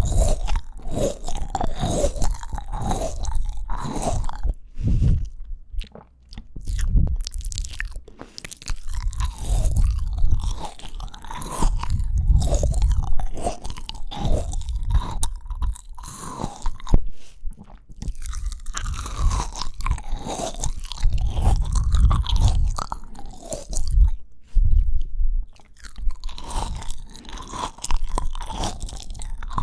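Close-miked crunching and chewing of fresh fruit (apple and strawberry), with repeated wet, crackly bites and chews and a couple of brief pauses.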